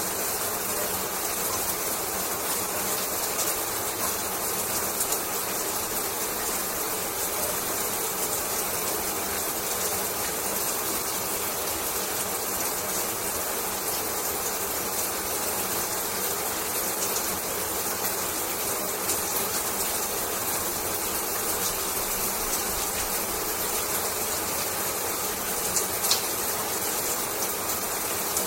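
Shower running: a steady hiss of falling water sprinkled with fine ticks of drops landing, with one slightly sharper splash about 26 seconds in.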